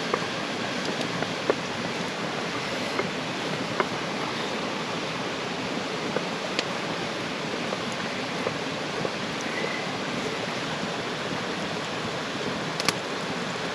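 Steady rush of a mountain stream, with a few faint sharp clicks scattered through it, the clearest about a second and a half in and near the end.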